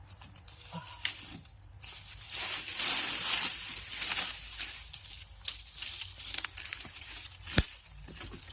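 Dry sticks and brush being handled and broken: crinkling rustle, loudest a couple of seconds in, with several sharp snaps.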